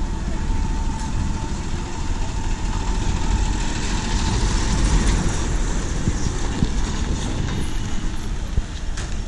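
A heavy vehicle's engine idling with a steady low rumble. A faint steady whine sits over it for the first few seconds.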